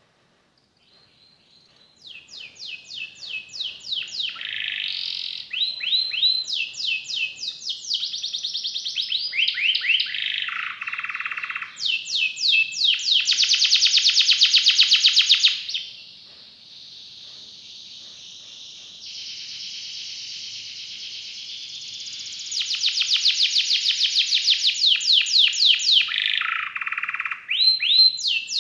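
Domestic canary singing a long, varied song of fast trills: each phrase is a rapid run of one repeated note, switching to a new note type every second or two, with a softer, even roll in the middle. The song starts about two seconds in.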